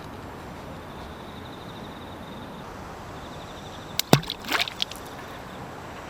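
A quick cluster of sharp knocks and clicks with a brief watery sweep, about four seconds in, lasting under a second, over a faint pulsing insect trill.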